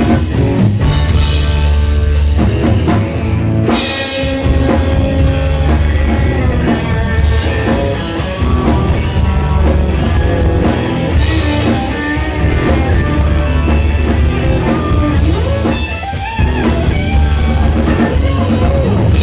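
Rock band playing live in an instrumental passage between sung lines: a drum kit and electric guitars over a heavy bass, with no singing.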